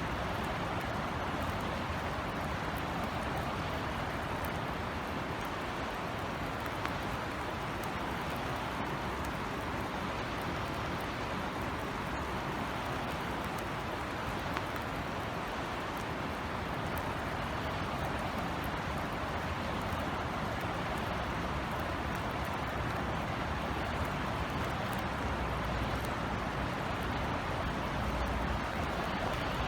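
Steady light city rain: an even hiss of drizzle with scattered drop ticks, over a low hum of distant traffic.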